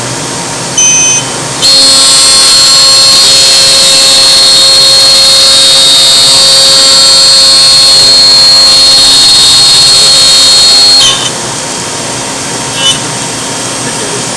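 CNC router running with a loud, steady high-pitched whine. A short burst comes about a second in, then a long run that cuts off suddenly about eleven seconds in, leaving a lower hum.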